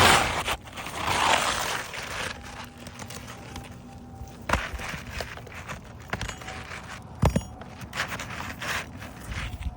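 A new asphalt shingle scraping and sliding across the roof's granular surface as it is worked into place, in two loud rasping strokes, then quieter rustling with a few sharp knocks, the loudest about seven seconds in.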